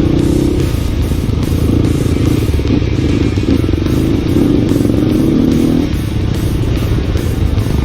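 Single-cylinder motorcycle engine running under way, with background music laid over it.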